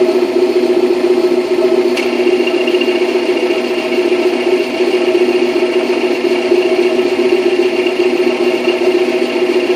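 2000 Toyota MR2 Spyder's 1.8-litre four-cylinder idling with a whirring rattle from the transmission. About two seconds in there is a click, and a steady high whine starts and carries on. The noise is the sign of a worn clutch throw-out bearing.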